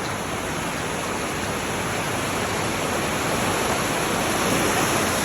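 Steady rushing of moving water, surf or falling water, with no pitch or separate strikes, swelling slightly about four seconds in.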